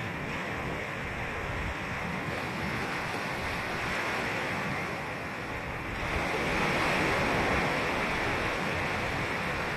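Ocean surf: waves washing in a steady rush, with a wave breaking and the rush swelling louder about six seconds in, then easing.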